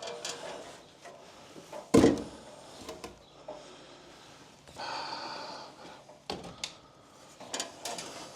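Scattered clicks and knocks of screws and wood being handled, with a sharp knock about two seconds in. Near the middle a cordless drill runs for about a second.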